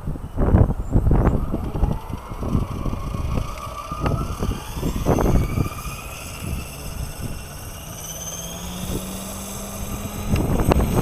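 Electric 550-size RC helicopter spooling up, its motor and rotor whine rising slowly in pitch, under heavy wind buffeting on the microphone that is loudest in the first couple of seconds.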